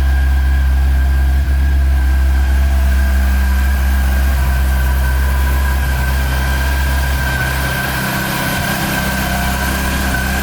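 Yamaha FJR1300's inline-four engine idling steadily.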